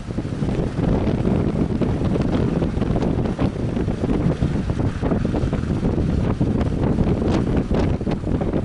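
Strong wind buffeting the microphone in uneven gusts, a loud, rough rumble.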